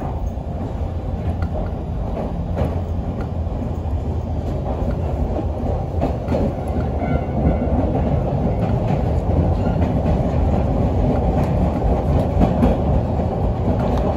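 Yoro Railway 600 series electric train running, heard from inside the carriage: a steady rumble of wheels on rail with faint clicks over the rail joints, growing gradually louder.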